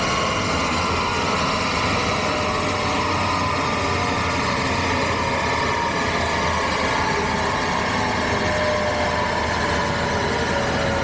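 Renault 8's engine running under load on a rolling-road dyno, held at a steady engine speed while the ignition and fuelling are mapped.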